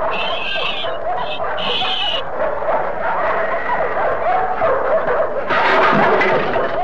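A pack of dogs barking, yapping and snarling in a loud, chaotic cartoon soundtrack, with a louder noisy burst of commotion near the end.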